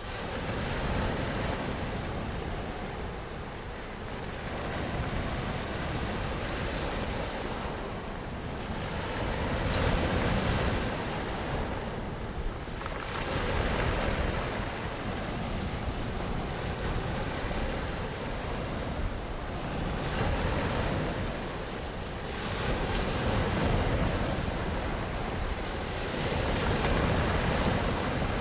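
Sea surf: waves washing in, a steady rush of water that swells and eases every four to five seconds.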